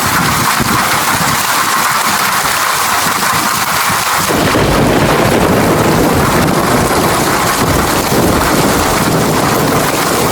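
Steady downpour of rain, an even hiss. A low rumble of thunder comes in about four seconds in and lasts several seconds under the rain.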